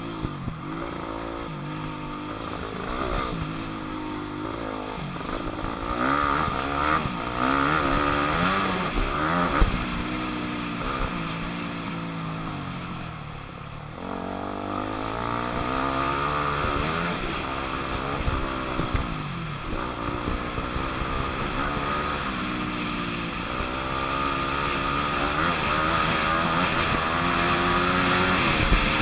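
2006 Yamaha YZ250F four-stroke single-cylinder dirt bike engine revving up and down repeatedly as the throttle is opened and rolled off around a motocross track. It eases off briefly about halfway through.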